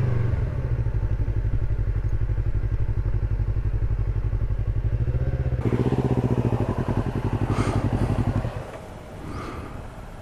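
Motorcycle engine idling, with a steady low pulsing exhaust note that stops about eight and a half seconds in.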